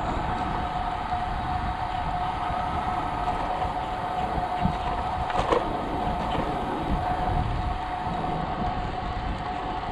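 Wind buffeting the microphone of a cyclist riding a road bike: a gusty low rumble over a steady hum.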